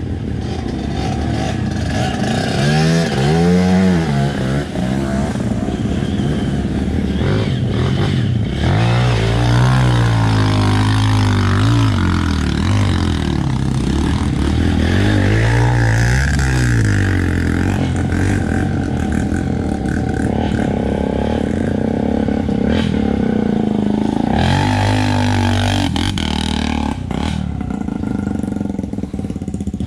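Honda XRE 300's single-cylinder engine being ridden on a dirt trail, revving up and easing off again several times, over a steady rushing noise.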